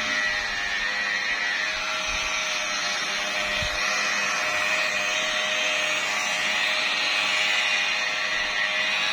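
Electric car-polishing machine running steadily on painted bodywork: an even motor whine over a steady hiss.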